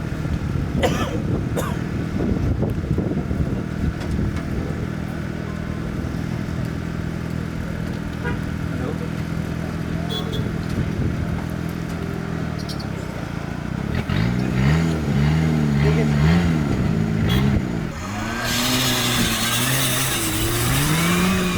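Off-road competition 4x4's engine running steadily, then revved up and down over and over from about two-thirds of the way in. A loud hiss joins near the end.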